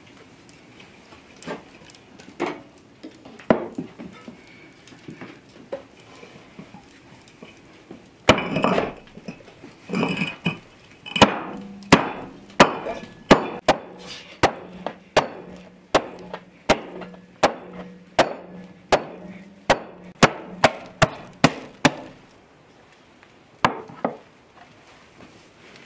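Hard knocks like a hammer or mallet striking wood: a few scattered blows at first, then a steady run of about a dozen and a half strokes, roughly one every half-second to second, over a low steady hum.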